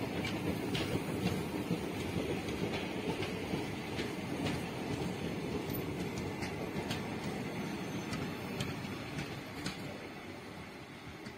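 Indian Railways ICF passenger coaches running past at speed: a steady rumble of wheels on the rails with irregular sharp clicks, fading near the end as the last coach goes by and draws away.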